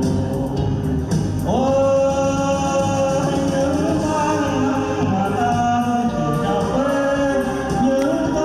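A singer performing with amplified musical accompaniment, holding a long note about a second and a half in.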